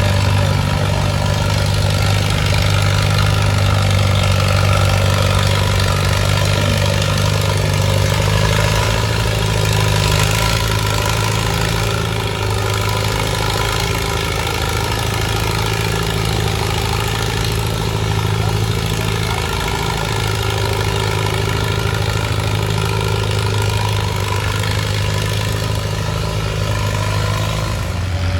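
Antique tractor engine running steadily at low speed, a constant low hum with little change in pitch.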